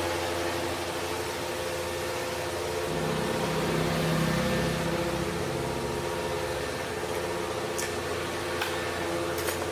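A machine running steadily with an even hum and a hiss, with a few sharp clicks near the end.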